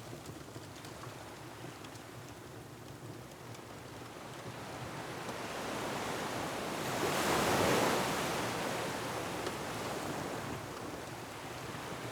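Ocean waves on a rocky shore. A steady rushing wash builds into one wave surging and breaking about seven to eight seconds in, then dies away, with wind and a few faint crackles from a fireplace.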